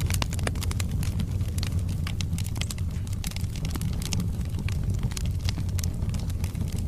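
Log fire burning in a fireplace: a steady low rumble of flames with frequent, irregular crackles and pops from the burning wood.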